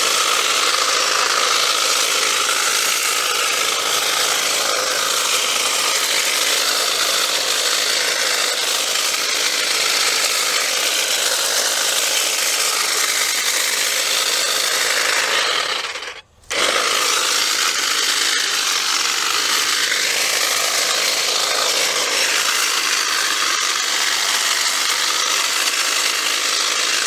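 A power cutting tool running steadily as it cuts through material to clear a path, with one brief stop about sixteen seconds in.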